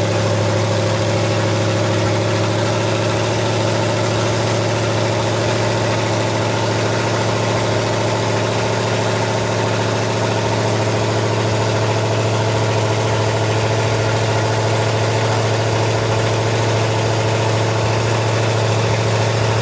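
Vehicle engine running loud and steady at one unchanging pitch, with no revving up or down.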